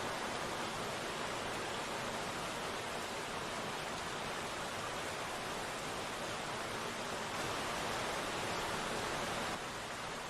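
Steady rain falling: a dense, even hiss of drops with no single drop standing out. It grows slightly louder about seven seconds in and eases back a little near the end.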